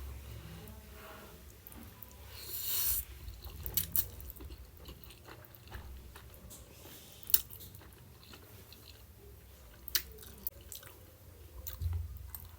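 A person chewing and eating a meal of ramen up close to the microphone. There is a short hissing rush about two seconds in and a few sharp clicks scattered through.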